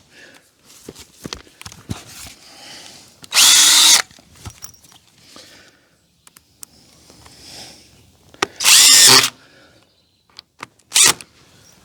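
Cordless screw gun driving drywall screws through a 1x1 wood strip into the wooden frame: three short runs of the motor, each about half a second to a second, the last very brief, with small clicks and handling noise between them.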